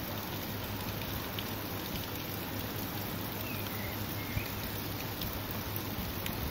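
Steady thunderstorm rain: an even hiss of falling rain, with one faint tick about four seconds in.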